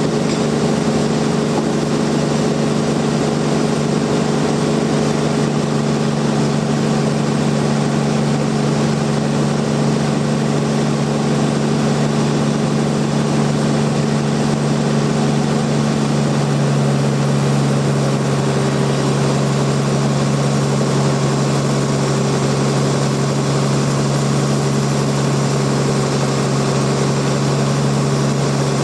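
Bandsaw mill machinery running steadily with a constant hum, its pitch dropping slightly about sixteen seconds in.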